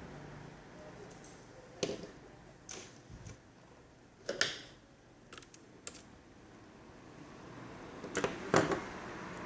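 Scattered light clicks and knocks of small plastic and metal parts being handled while a laptop is taken apart, about eight irregular taps with the loudest a little after four seconds in and near the end.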